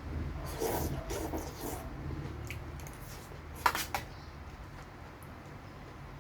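A person chewing and crunching food close to the microphone during a mukbang, with two sharp clicks in quick succession a little past halfway.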